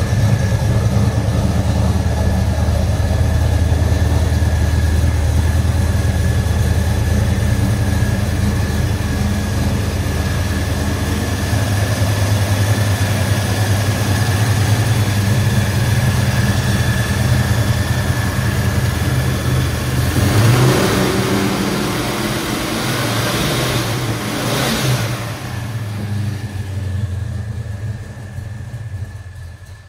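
1971 Ford Mustang Mach 1's V8 running at idle while it warms up after a cold start, with a steady high whine over the engine note. The engine sound shifts about two-thirds through with some louder noise, then fades near the end.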